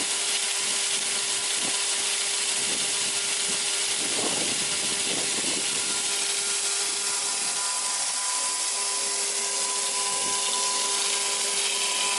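Prinz chain saw for cutting stacks of boards running steadily and sawing through wood, with a steady hum under the cutting noise.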